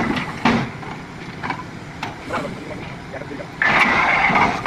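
Borewell drilling rig running, with scattered knocks and a loud hiss lasting about a second near the end.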